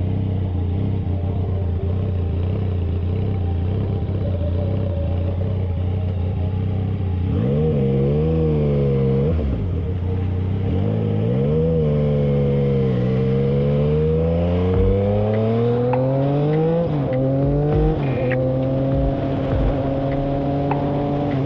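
Motorcycle engine idling steadily, then revved briefly twice and pulled away, its pitch climbing steadily, dropping at a gear change near the end and holding a little higher after.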